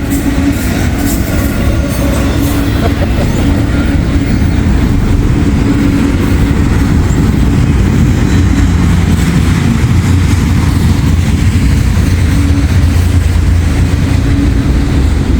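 Double-stack intermodal freight cars rolling past: a steady, loud rumble of steel wheels on the rails, with some clickety-clack.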